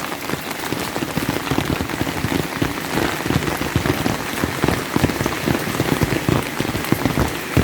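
Steady rain, with dense, closely spaced drops pattering on an umbrella held just above the phone's microphone.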